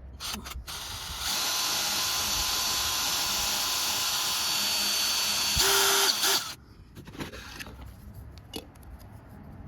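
Electric drill running steadily for about five seconds, louder for its last second before it stops, opening up a hole in a gasket slightly. A few faint clicks follow.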